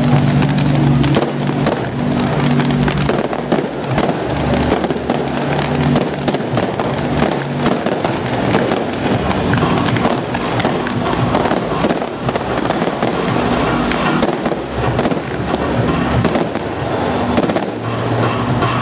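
Fireworks going off continuously: dense crackling and rapid pops from ground-fired comets and small aerial shells. Music plays underneath, clearest at the start and near the end.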